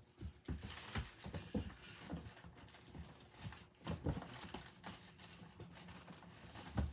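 Irregular taps, knocks and rustling from boxed collectible figures and their packaging being handled on a tabletop, with a heavier low thump near the end.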